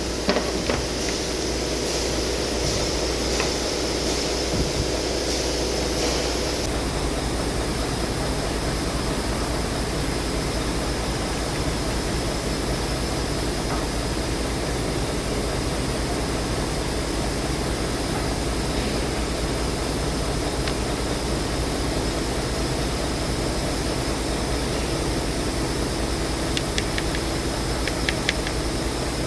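A steady engine drone, with a few faint light clicks near the end.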